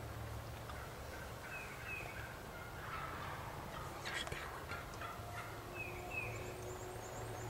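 Wild turkey gobbler gobbling, a rattling call about three to four seconds in, with a few short, high, falling chirps before and after it.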